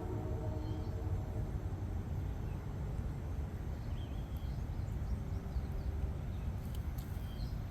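Outdoor ambience dominated by a steady low rumble, with faint high bird chirps now and then and a faint goose call about five seconds in.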